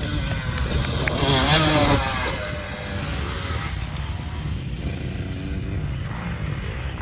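Motocross motorcycles racing on the track, their engines revving up and down between gears. One bike passes loudest about a second and a half in, and the others carry on at a steady level.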